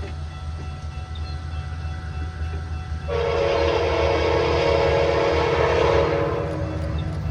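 Metra commuter train's diesel locomotive running with a steady low rumble, then sounding its air horn in one long blast of about three and a half seconds, starting about three seconds in.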